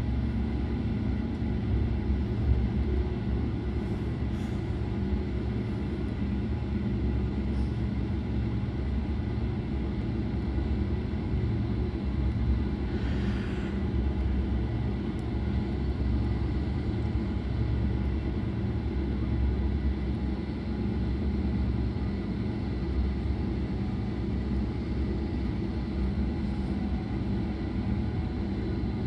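Steady low rumble inside a moving Belgian Railways I10 passenger coach: the running noise of the train at speed on the rails. A brief hiss rises and falls about halfway through.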